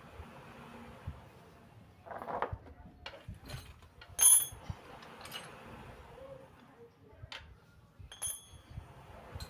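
Metal tools or bicycle parts being handled: scattered knocks and clicks, with a loud ringing metal clink about four seconds in and another about eight seconds in.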